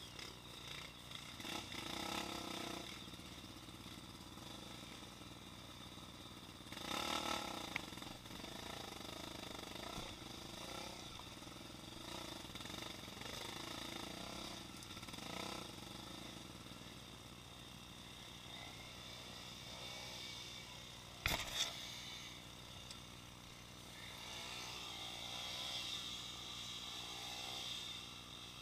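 Trail motorcycle engines running, the pitch rising and falling as they rev and ease off. There is one sharp knock about two-thirds of the way through.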